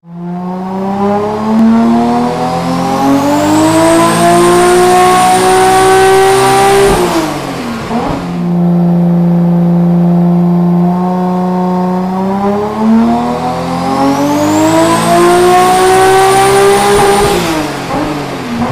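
Turbocharged Toyota 2JZ straight-six in a Nissan Cefiro making two full-throttle pulls on a chassis dyno. Each time the revs climb for several seconds and then drop sharply when the throttle is lifted, with a high whistle rising alongside. Between the two pulls the engine holds steady revs for a few seconds.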